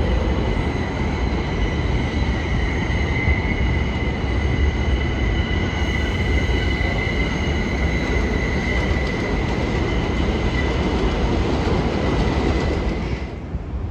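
New York City subway train running through the station with a steady rumble and a sustained high-pitched wheel squeal. It drops away sharply near the end.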